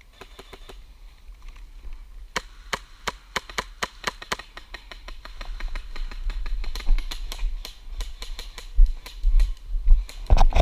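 A string of sharp, irregular cracks and clicks, several a second and growing denser partway through: airsoft gunfire and BBs striking nearby cover. A rustling burst comes near the end.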